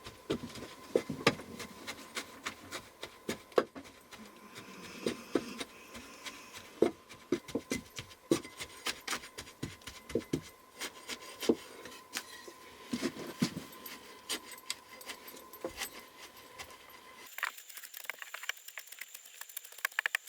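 Irregular taps, knocks and rubbing on wood as jute is pushed and tamped into the gaps between the cabin's logs to caulk them.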